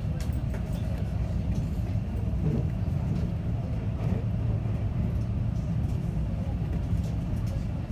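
Passenger train running at speed, heard from inside the carriage: a steady low rumble of wheels on the rails with a few faint clicks.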